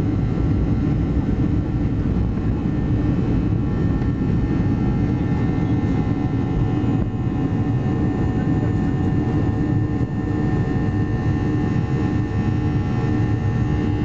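Steady engine and airflow noise in the cabin of a Boeing 737-800, its CFM56 turbofans running evenly: a deep rumble with several steady whining tones over it, unchanging throughout.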